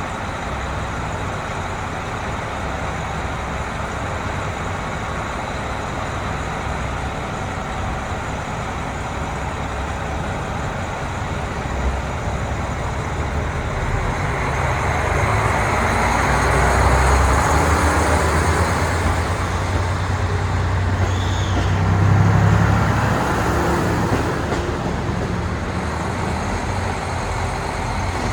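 Diesel railcar engines running at a station. The low engine hum and the rushing of the train grow louder about halfway through as a train moves close by, then ease off near the end.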